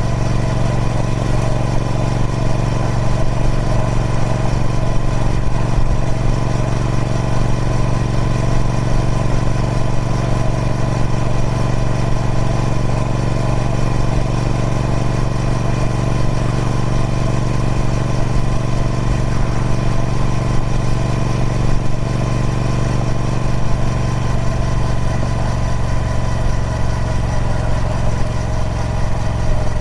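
Triumph Speed Twin 1200's 1200cc parallel-twin engine running through its stock exhaust, holding a steady, unchanging note with a deep, strong low end.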